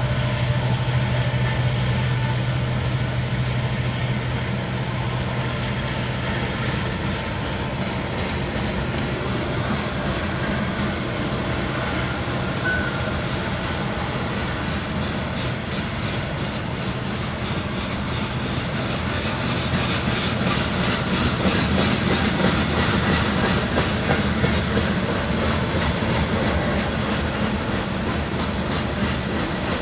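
Freight train of loaded grain hopper cars rolling past, a steady rumble with wheels clicking rhythmically over the rail joints. A steady low hum is also heard in the first several seconds.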